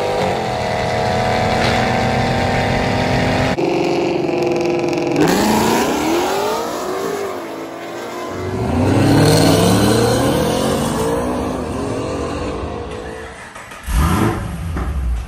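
Chevy SS's LS3 V8 exhaust in several cut-together clips: engine held at steady revs, then revved repeatedly with the pitch rising and falling, and a sudden loud blip near the end.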